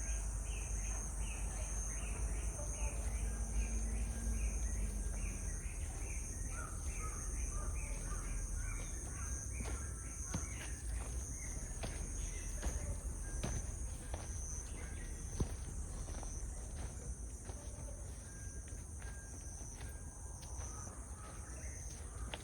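Insects shrilling in a steady high drone, with short bird chirps repeating over the first half. Footsteps on a woodland path sound throughout, over a low wind rumble.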